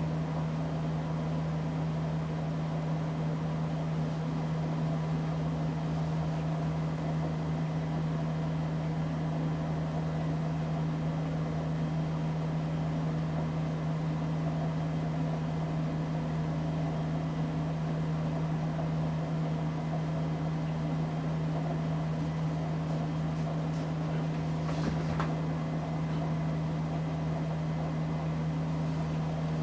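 Casablanca Delta ceiling fan running at a steady speed, its motor giving off a constant low hum over a soft whoosh.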